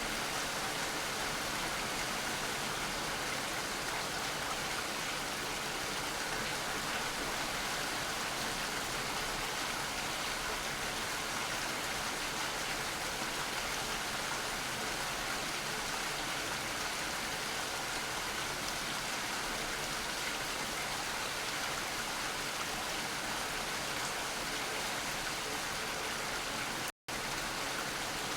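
Steady, even rainfall. It breaks once near the end for a split second of total silence.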